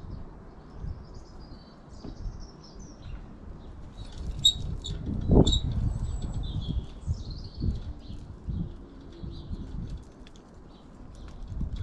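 Small birds chirping in short high notes, over low thumps and fluttering, with one louder thump about five seconds in.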